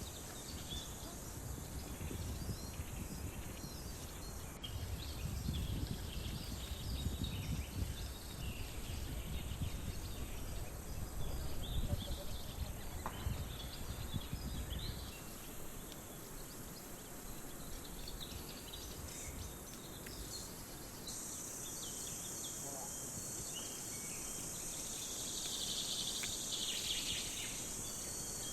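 Outdoor nature ambience: birds chirping, with a low rumble through the first half. About two-thirds of the way in, a steady high insect drone sets in, as of crickets or cicadas.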